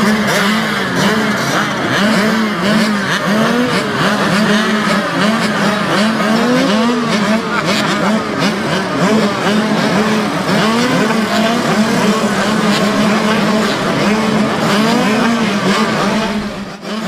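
Several small mini bike engines racing together, each revving up and falling back again and again so the pitches overlap; the sound drops briefly near the end.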